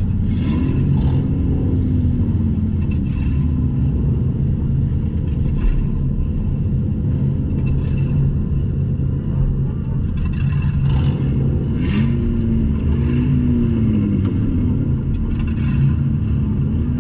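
Demolition derby car's engine running loud and steady, heard from inside the stripped cab, with a few knocks and rattles about ten to twelve seconds in.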